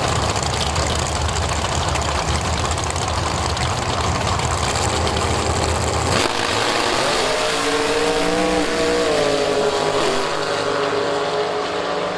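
Drag racing car engines running loud: a dense rumble for the first half, then a pitched engine note that rises and wavers, as an engine is revved, before holding steady near the end.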